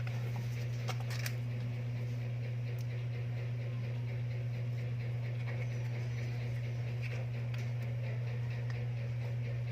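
A steady low hum with a few faint small clicks over it.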